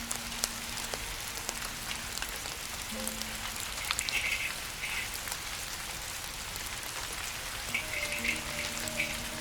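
Steady rain falling, with scattered sharp crackles and pops from a wood campfire.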